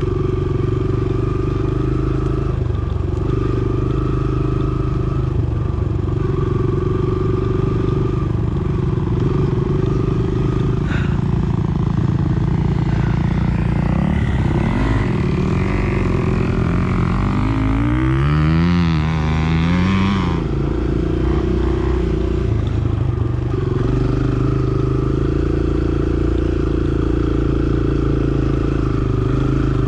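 Dirt bike engine running at steady throttle, its revs rising and falling several times about halfway through.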